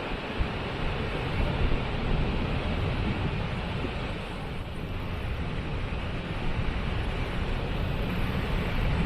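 Waterfall: a steady rush of falling water with a deep, uneven rumble underneath.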